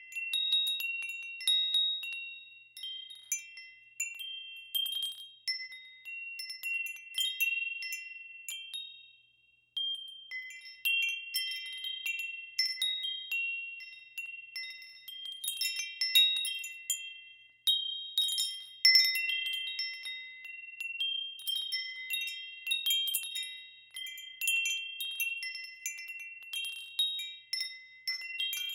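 Wind chimes ringing in irregular clusters of high, ringing tones, a handful of fixed pitches struck over and over and overlapping, with a brief lull about ten seconds in.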